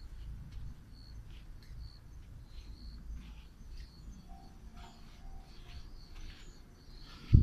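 Small birds chirping with short, high calls repeated throughout, with a few lower short notes in the middle, over a low steady rumble. A sharp knock just before the end.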